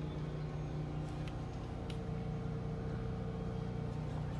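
Steady low machinery hum, with a couple of faint ticks about a second and a half in.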